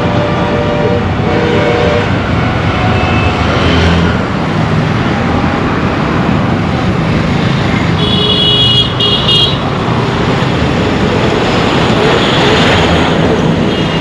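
Dense road traffic with engines running and horns honking repeatedly, the clearest a high-pitched horn blast a little past the middle.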